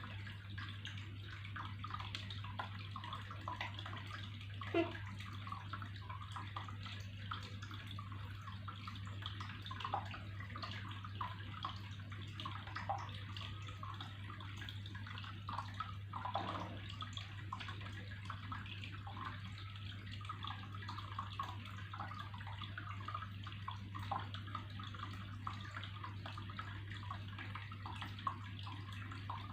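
Water trickling and splashing steadily, with small bubbly plops, two of them louder: about five seconds in and about sixteen seconds in. A steady low hum runs beneath.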